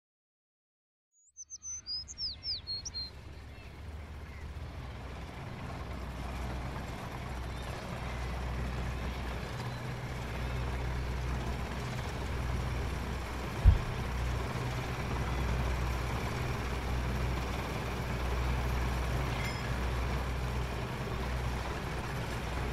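Silence, then a bird chirps a quick run of falling high notes. After that comes steady outdoor background noise with a low rumble, and a single sharp thump about halfway through.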